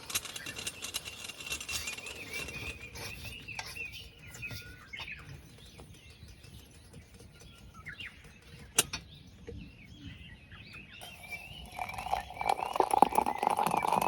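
Birds chirping over quiet outdoor background, with one sharp click about nine seconds in. About eleven seconds in, a louder, rougher sound full of crackles and clicks comes up.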